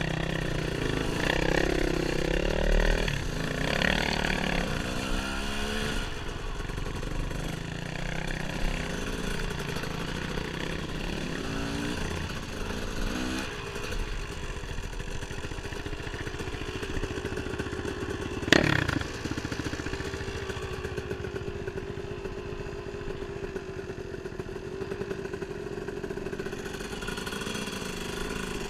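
Dirt bike engine running on a trail ride, its revs rising and falling through the first few seconds, then holding steadier. A single sharp knock about two-thirds of the way through.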